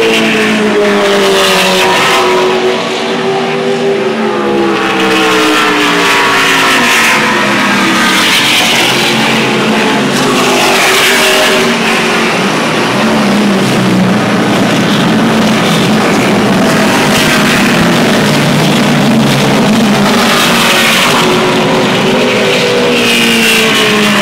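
NASCAR race trucks' V8 engines at speed, passing one after another. Several engine notes overlap, each rising and falling in pitch as a truck goes by.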